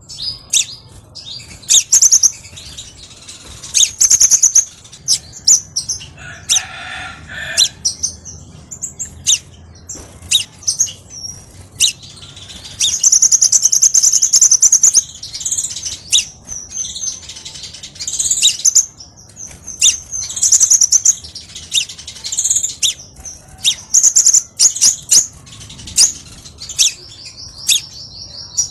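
Crimson sunbird song: a rapid string of sharp, high-pitched chirps and ticks, broken by long buzzy trills about halfway through and again near the end.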